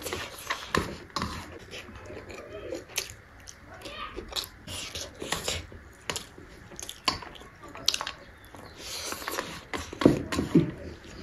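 Close-up mouth sounds of eating by hand: irregular wet chewing and lip smacks as rice and fermented bamboo shoot are chewed, with fingers working the rice on a steel plate. A louder cluster of smacks near the end.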